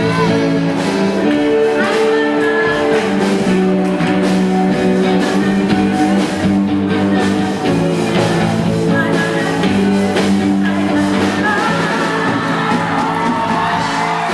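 Live band music in a large hall: drums beating steadily under held chords, with a voice singing.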